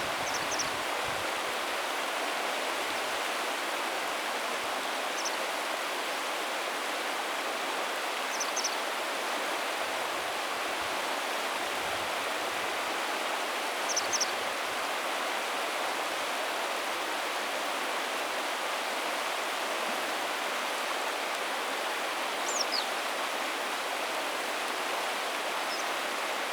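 Steady rushing of flowing river water, with short high bird calls about six times, some as quick pairs of notes and one a falling note.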